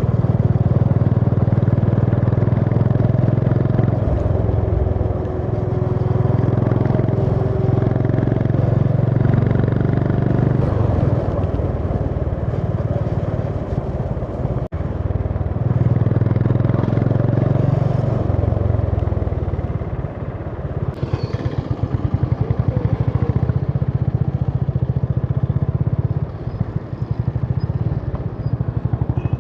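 Honda CB350 H'ness's single-cylinder engine running on the road, the throttle opening and closing. The sound drops out briefly about halfway through, and in the later part the separate exhaust beats come through as the throttle eases.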